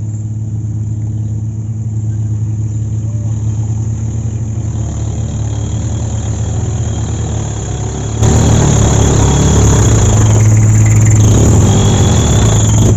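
Dump truck engine running with a steady low hum. About eight seconds in, the sound jumps suddenly louder, with a broad rushing noise over the engine.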